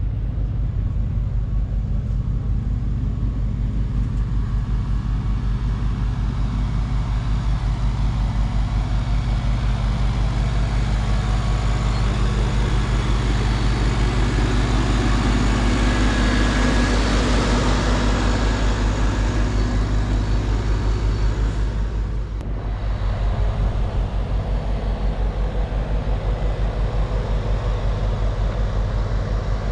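An engine running steadily with an even low pulse. A broader rushing noise swells up in the middle and fades, and the sound briefly dips with a click about 22 seconds in.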